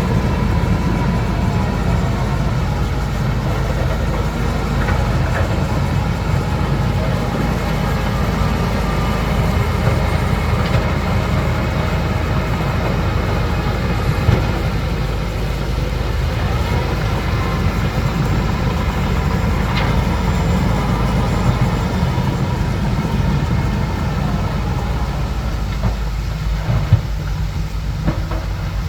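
Bulldozer's diesel engine running steadily, a heavy low rumble, with a few short knocks from the machine.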